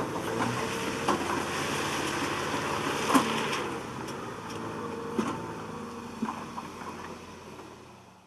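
TYM compact tractor's diesel engine running steadily, with a few sharp cracks now and then; the sound fades out near the end.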